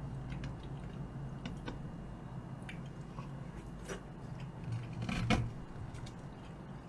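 Close-miked eating: chewing and biting on soft tteokbokki rice cakes, with small clicks of a fork in a stainless-steel pan. A louder, noisier mouth sound comes about five seconds in.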